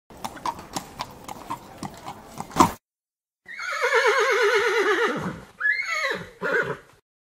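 Horse hooves clip-clopping for nearly three seconds, then a horse whinnies: a long, quavering neigh that falls in pitch, followed by two shorter calls.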